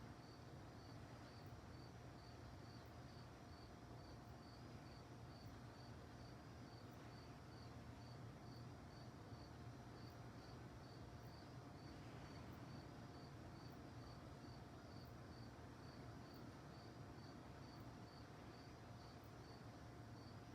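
Crickets chirping faintly and steadily, about two chirps a second.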